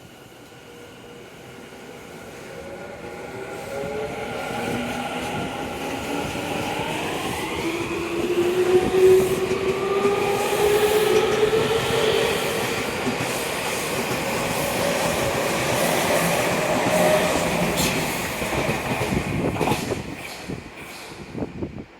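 Tokyu 5050 series electric train going by, its motors giving off several whining tones that climb steadily in pitch as the sound swells. Near the end come a run of sharp clicks from the wheels, and the sound fades.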